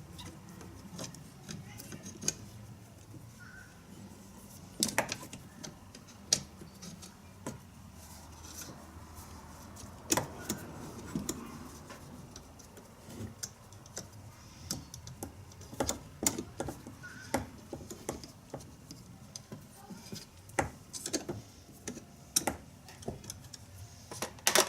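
Irregular clicks and light metal knocks of hand tools and small parts on an animatronic head mechanism, as its actuator collars are worked off.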